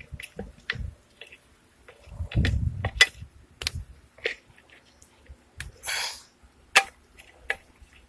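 Irregular sharp clicks and knocks of small plastic and metal parts being handled on a two-stroke string trimmer while its fuel filter is checked, with a dull low rumble about two and a half seconds in and a brief hiss near six seconds.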